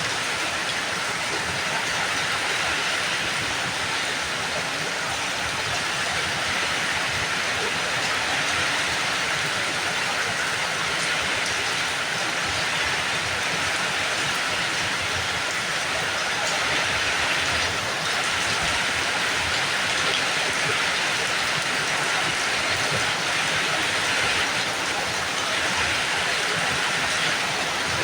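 Steady rain falling and pattering on surfaces, an even hiss that keeps on without pauses.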